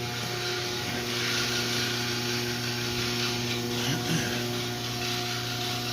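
Electric garage door opener motor running with a steady hum.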